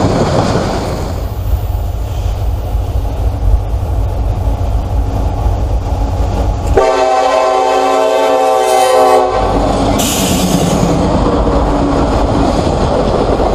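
Freight train passing close by, its cars' wheels rumbling and clattering over the rail joints. About seven seconds in, a diesel locomotive's horn sounds one steady blast of about two and a half seconds.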